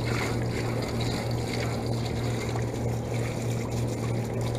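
Water from a garden hose spraying and trickling over an air-conditioner condenser unit, with a steady low hum.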